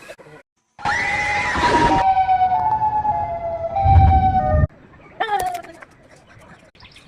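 Two-tone siren sound effect: a steady hi-lo wail that starts about a second in and stops suddenly past the midpoint, with a low thud just before it ends. Faint clicks and a brief tone follow.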